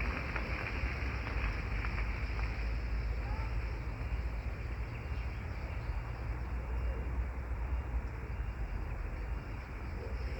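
Steady outdoor ambience: an even rush of noise over a strong low rumble, with no break or change.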